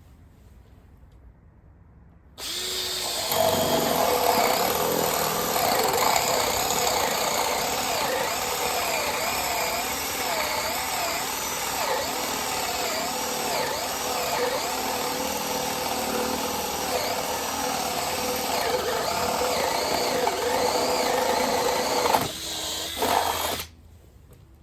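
Makita 18-volt cordless drill boring through a wooden 4x4 with a 1.5-inch spade bit in high-speed mode. The motor pitch wavers up and down as the bit bites and frees in the wood. It starts a couple of seconds in, runs for about twenty seconds, stutters briefly and stops near the end.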